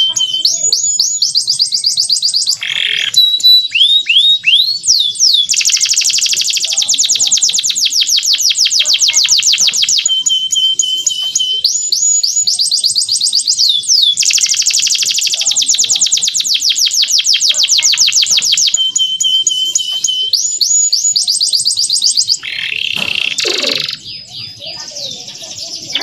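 Male canary singing a song of rapid trills: fast rolls of repeated notes, two of them held for about four seconds each, linked by short sweeping whistles.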